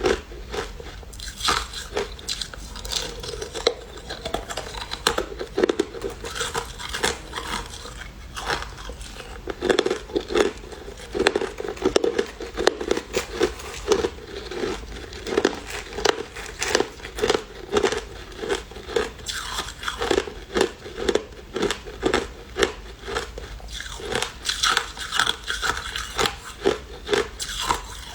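A person biting and chewing crushed ice: a steady run of crisp crunches, a few a second.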